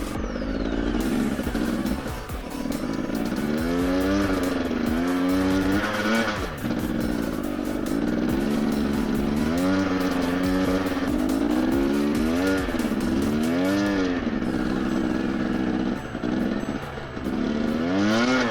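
Husqvarna TE250i single-cylinder two-stroke dirt bike engine being ridden, its pitch rising and falling over and over as the throttle is opened and closed, with short clicks and rattles over it.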